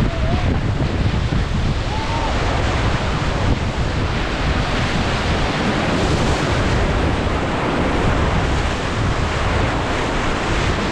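Whitewater rapid rushing and splashing around a paddled raft, a steady loud noise of water with wind on the microphone. Two short voice cries in the first two seconds.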